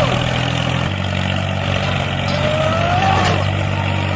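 A tractor engine running steadily, its pitch shifting slightly about a second in, with a few faint high gliding tones above it.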